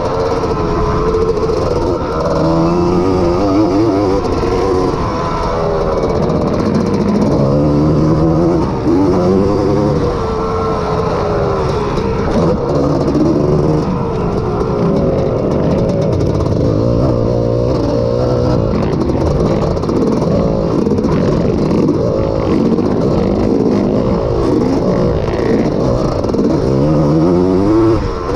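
Honda ATC250R three-wheeler's two-stroke single-cylinder engine running hard under racing throttle. Its pitch climbs and drops again and again as the rider accelerates, shifts and backs off.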